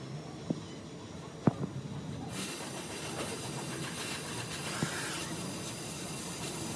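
A few sharp knocks, then a steady hiss that starts suddenly about two seconds in and holds.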